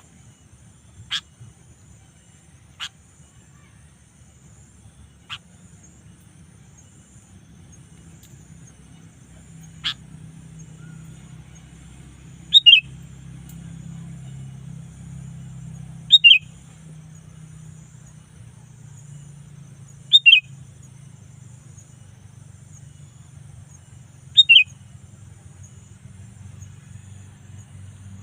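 Sooty-headed bulbul (kutilang) giving short, loud two-note calls that fall in pitch, repeated about every four seconds from about halfway through, after a few sharp single chips in the first half. A faint steady high-pitched buzz runs underneath.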